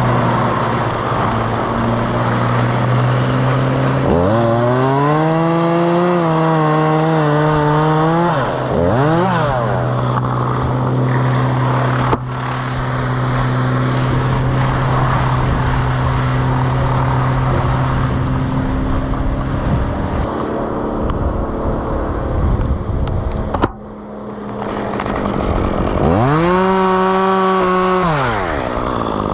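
Two-stroke chainsaw idling, revved up and let back down to idle a few times.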